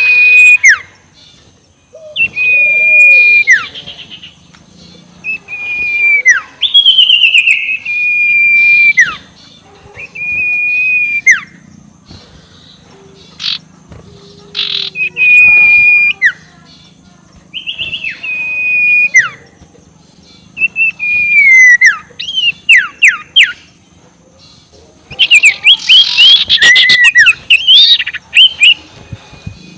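Sirtu (scops owl) calls used as a lure: a high whistled note, held and then dropping at the end, repeated about a dozen times every second or two. Near the end comes a dense, quick run of overlapping calls, the cackling 'ngekek' call.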